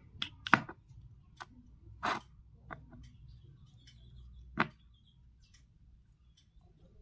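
A handful of sharp, separate clicks and knocks, the loudest about half a second in and the last a little over four and a half seconds in, over a faint low hum.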